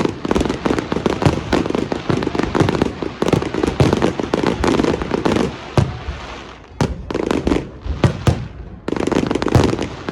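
Fireworks going off: a dense run of rapid crackles and pops, easing briefly about six seconds in and again near nine seconds before picking up again.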